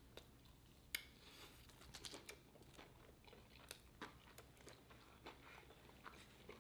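Near silence with faint, scattered crunches and clicks of someone chewing crispy fried chicken.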